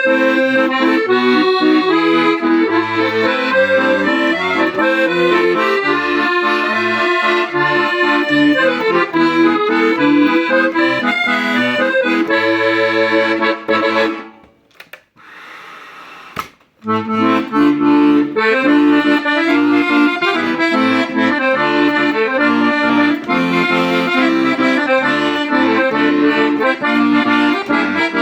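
Mantovanelli 72-bass accordion playing a tune, a melody of held notes over short, regularly repeated bass notes. The playing stops for about three seconds about halfway through, then resumes.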